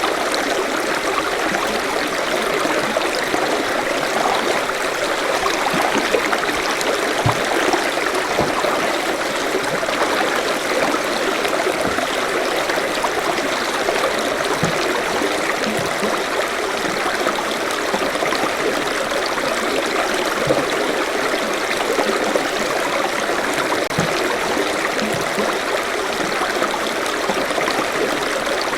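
Forest stream flowing steadily over rocks, a continuous rush of running water with small splashes and gurgles.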